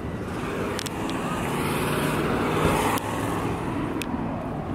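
Road traffic noise: a vehicle's rushing sound swells to a peak about two seconds in and then eases off.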